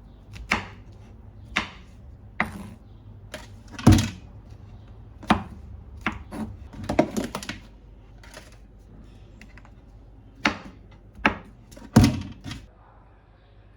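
Kitchen knife cutting mushrooms on a cutting board: irregular knocks of the blade striking the board, about a dozen in all, the loudest about four seconds in and a quick cluster around seven seconds.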